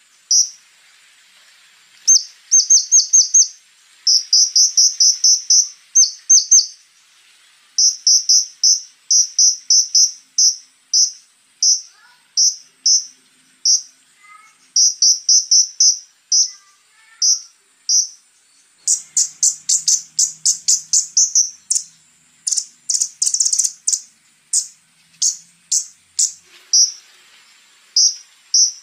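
Scarlet-backed flowerpecker calling: runs of short, very high, sharp ticking notes fired in quick succession, broken by brief pauses, with a denser, busier run about two-thirds of the way through. A few faint lower chirps come in between the runs near the middle.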